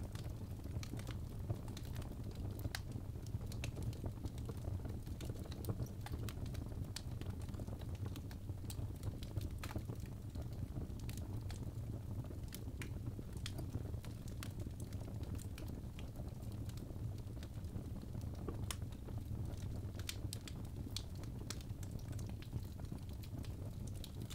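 Birch logs burning in a fireplace, crackling and popping with irregular sharp snaps over a steady low rumble of the flames.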